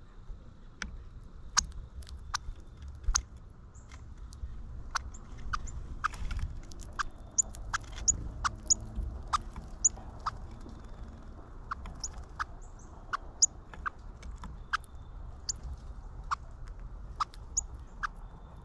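Northern cardinal giving sharp chip calls, irregular and a little more than one a second, each a quick downward sweep in pitch.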